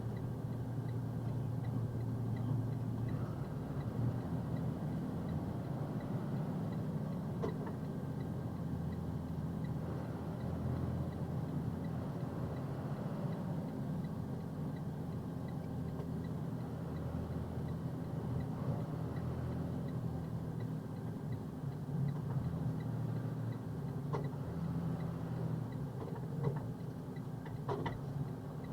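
Box truck's diesel engine and road noise heard from inside the cab, a steady low drone that swells and eases slightly while driving; the truck is running poorly on fuel gelled by the cold. A couple of faint clicks near the end.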